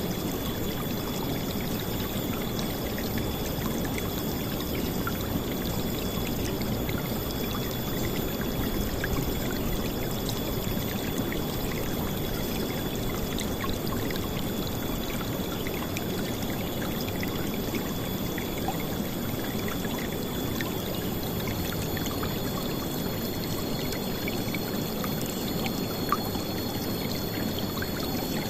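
River water flowing steadily, a continuous rushing with small splashes and droplet ticks through it. A faint steady high tone sits above it, and a second one joins near the end.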